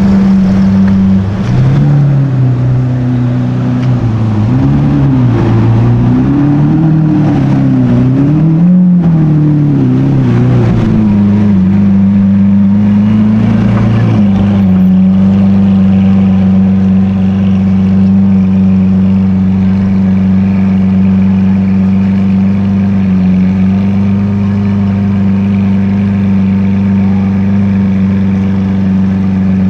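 Supercar engine running. Its note rises and falls in a series of gentle swells for the first third, then holds steady from about halfway.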